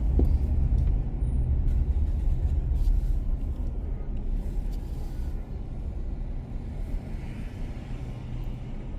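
Low, steady rumble of a car driving on city streets: road and engine noise that slowly fades over the stretch.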